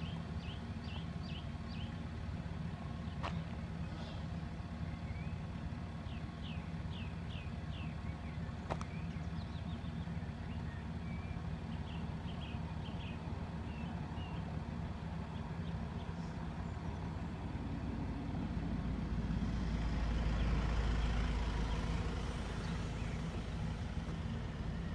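Steady low engine hum from a vehicle running nearby, with small birds chirping over it. About two-thirds of the way in, a louder rushing swell rises, peaks and fades as a vehicle passes.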